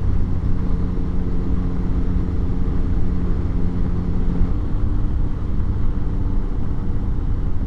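Motorcycle engine running steadily under way, with a low rush of wind and road noise. About four and a half seconds in, the engine note changes pitch.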